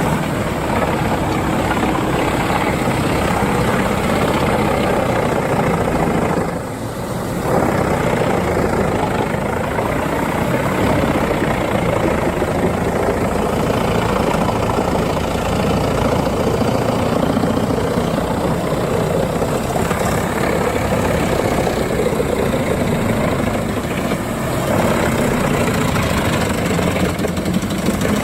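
Large wood chipper running under load, a steady heavy engine and machine noise, dipping briefly for about a second around seven seconds in.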